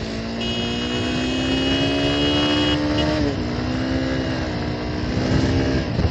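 Motorcycle engine under way, its pitch rising steadily as it accelerates for about three seconds, then dropping at a gear change and holding steady. A high steady tone sounds over it for about two seconds, starting about half a second in.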